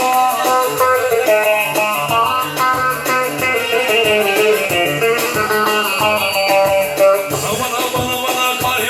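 Music: a plucked string instrument playing a fast melody of quick notes over a steady beat.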